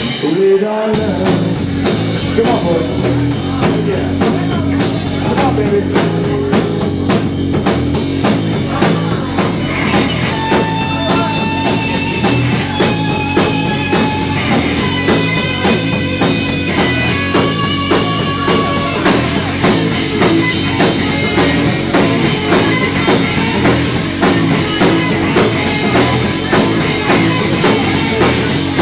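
Live rock band playing a stretch with no vocals: a steady drum-kit beat and bass drive throughout, with an electric guitar holding long notes through the middle.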